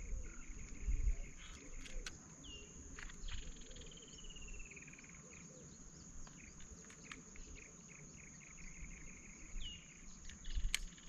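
Steady high-pitched chirring of crickets, with a trilled call that falls slowly in pitch twice, about two seconds in and again near the end. Low rumbles and a few clicks come at the start and near the end.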